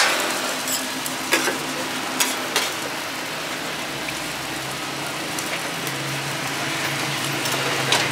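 Food sizzling as it fries in a hot pan, with a few sharp clicks.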